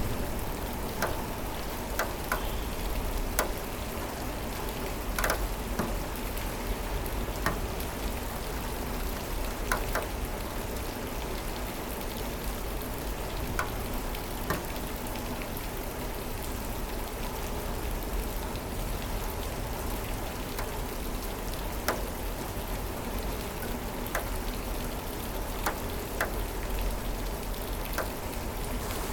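Steady rain falling on a surface, with scattered sharp drops and drips standing out every second or so over an even hiss and a low rumble beneath.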